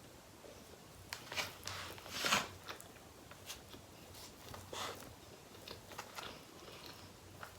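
A person biting and chewing food close to the microphone: irregular wet clicks and smacks, with the loudest bite about two seconds in.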